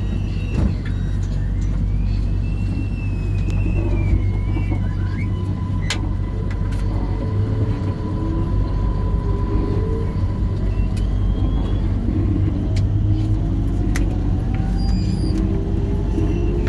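MRT Kajang Line metro train running between stations, heard from inside the carriage: a steady low rumble from the wheels and running gear, with an electric motor whine that rises in pitch through the second half.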